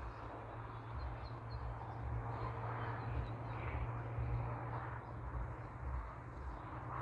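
Outdoor ambience: a steady low hum and background rustle, with a few faint bird chirps about a second in.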